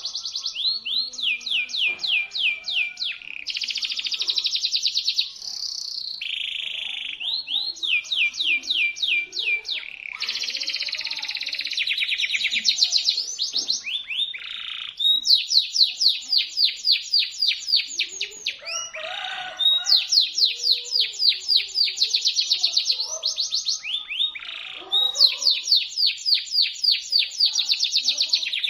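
Local canary singing a shrill, continuous song of fast repeated trills and rolls. The phrases change every second or two, with only brief breaks between them.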